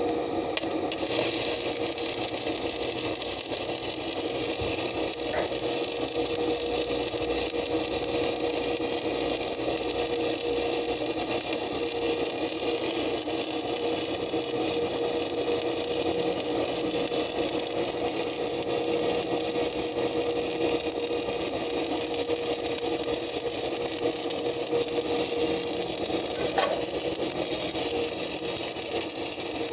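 Stick-welding arc crackling steadily as an electrode burns on the backhoe arm. It starts about a second in, over a steady hum.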